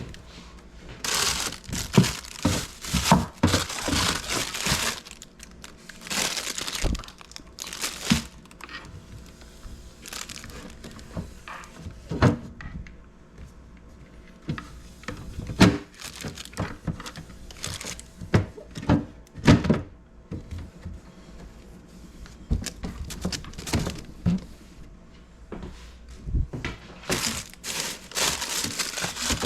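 Rustling and crinkling in bursts, with scattered clicks and knocks of containers and items being handled while a refrigerator is emptied and cleaned.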